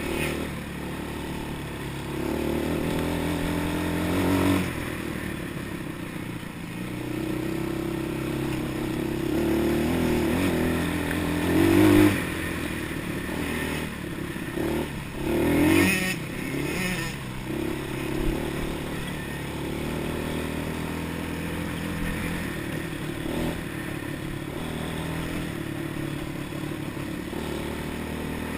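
Quad bike engine running under changing throttle while riding off-road, its pitch rising and falling, with two louder bursts of revving about twelve and sixteen seconds in.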